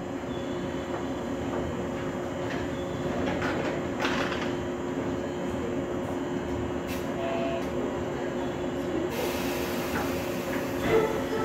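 Electric train running past on the rails: a steady rumble with a constant electrical hum and a few clicks.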